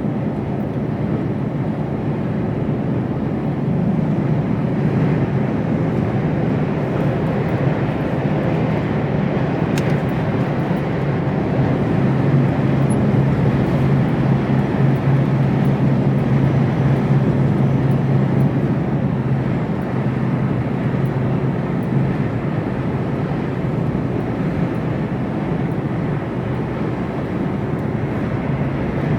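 Steady cab noise of a Mercedes Actros lorry on the move: a constant engine drone with tyre and road noise, the low hum swelling a little in the middle.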